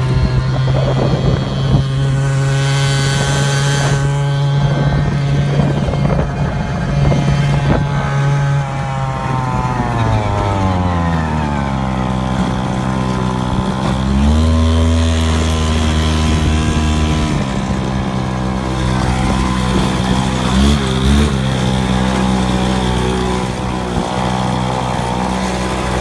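Minibike's small engine running while ridden, its pitch steady, then easing down about ten seconds in, rising again around fourteen seconds and dropping back near seventeen seconds.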